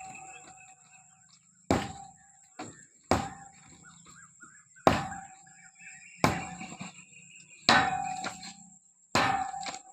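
Hammer striking metal, about six blows at roughly one every second and a half. Each blow leaves a short ringing tone that dies away.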